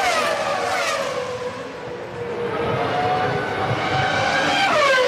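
Formula One cars' high-revving 3.0-litre V10 engines going past: the engine note drops in pitch as a car goes by at the start, a note climbs steadily in the middle, and another car goes past with a falling note near the end.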